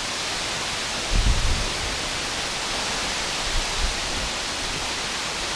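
Waterfall crashing into its pool: a steady, even rushing hiss, with short low bumps about a second in and again near four seconds.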